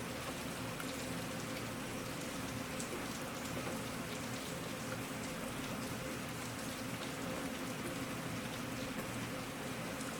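Steady rain falling: an even hiss of rain with scattered individual drops ticking through it.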